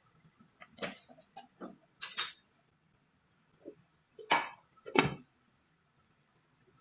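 Kitchen utensils and cookware clinking and knocking: about half a dozen separate strikes with pauses between, the two loudest a little past the middle.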